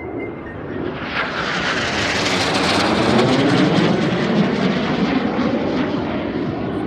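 CT-114 Tutor jets of the Snowbirds flying past. The jet noise swells about a second in, is loudest two to three seconds in, then drops in pitch and fades slightly as they pass.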